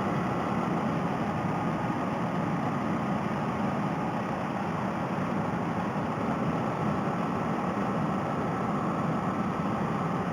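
Honda Rebel 250 motorcycle running steadily at cruising speed, engine hum mixed with wind noise, picked up by a helmet headset microphone.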